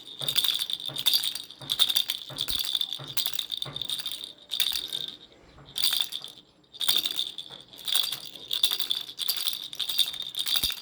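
Baby rattle shaken in repeated bursts of rattling, about one or two shakes a second, with short pauses about five and six seconds in.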